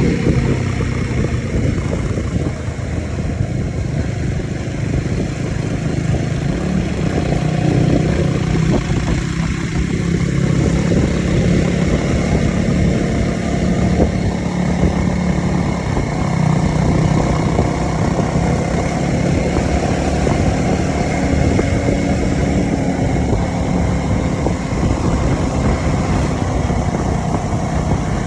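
Dirt bike engine running steadily, its pitch rising and falling only slightly.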